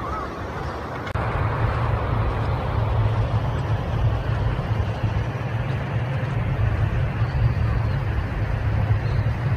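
Steady low rumble of a motor vehicle on the move, starting abruptly about a second in.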